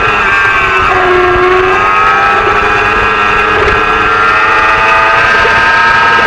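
Small-displacement supersport racing motorcycle engine running at high revs. Its pitch falls briefly about a second in, then climbs steadily as the bike accelerates.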